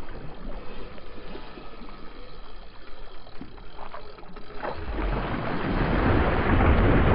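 Water sloshing around a kayak with wind buffeting the microphone; about five seconds in, a louder rush of water and wind swells up and holds.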